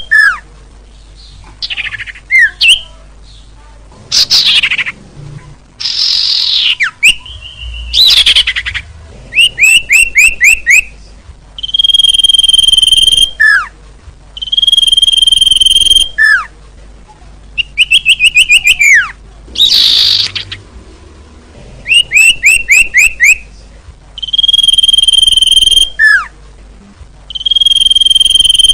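Bird-luring call track of small songbirds. A long, steady, high whistle is followed by a short falling note and repeats every few seconds, alternating with fast runs of sharp chirps and a few harsh sweeping calls.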